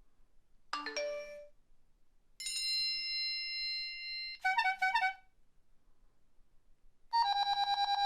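A series of short electronic alert tones: a quick rising chime about a second in, then a held tone that breaks into a few fast pulses, and near the end a rapid stuttering beep.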